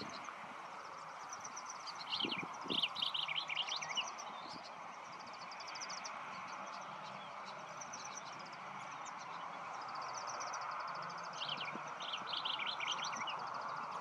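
Songbird calling in two bursts of quick chattering notes, one about two seconds in and one near the end, with several runs of a fast, high ticking trill between them. Steady background hiss throughout.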